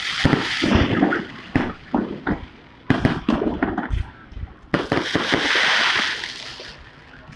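Fireworks going off: a rapid, irregular series of sharp bangs and cracks, then a longer crackling hiss from about five to six and a half seconds in that fades away.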